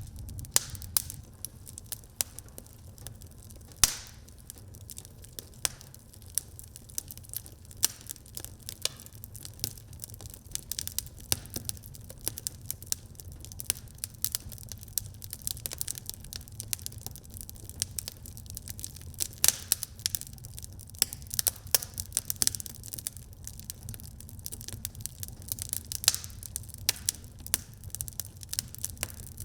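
Wood fire burning in a fireplace: a steady low rumble of flame with dense, irregular crackles and sharp pops throughout.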